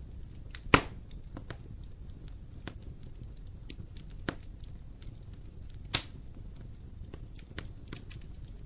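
Wood fire burning in a fireplace and crackling: scattered small clicks over a low steady rumble, with two loud pops, one about a second in and one about six seconds in.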